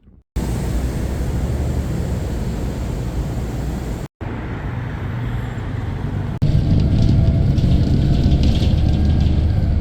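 Engine and road noise of a moving city bus heard from inside, a steady low rumble that gets louder partway through.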